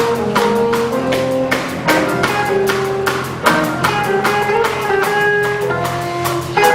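A school band playing a piece: sustained melodic notes over a steady beat of quick, crisp percussion strokes.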